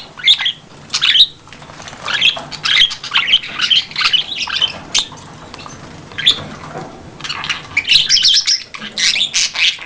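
Baby budgerigars chattering and chirping, many short high calls overlapping, busiest in the middle and again near the end.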